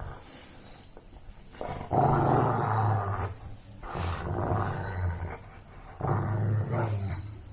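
Puppy play-growling in three low, rough growls, each lasting a second or so, starting about two, four and six seconds in.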